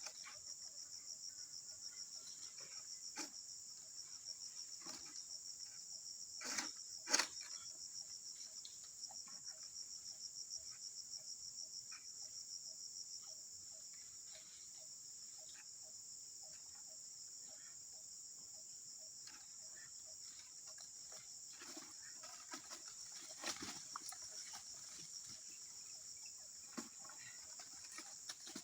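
Steady high-pitched insect chorus, a fast pulsing trill, with scattered clicks and rustles and two louder knocks close together about seven seconds in, and another knock later.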